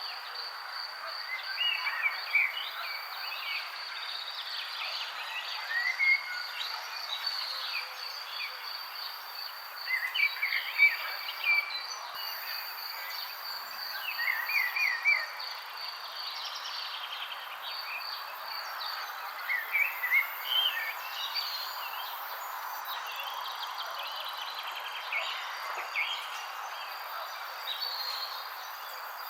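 Wild birds chirping in short, scattered phrases over a steady, high-pitched insect trill, like a cricket's, with a soft background hiss.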